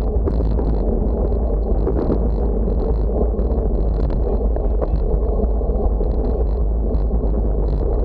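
Wind buffeting the microphone: a steady, loud rumble with no let-up.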